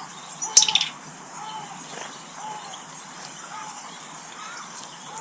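Garden birds calling at feeders. A short arched call repeats every half second or so, with thin high chirps over it. A brief, sharp, loud sound comes about half a second in.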